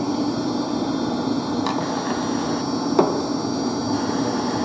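Steady machinery hum in a heating plant room, with two sharp metal knocks about a second apart, the second the louder: hand tools striking the casing of a Grundfos TP circulation pump being taken apart.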